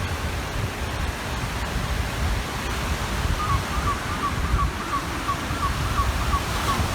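Waves washing on a lakeshore with wind, including low wind rumble on the microphone. From about halfway, a bird gives a quick run of short, evenly repeated calls, about three a second.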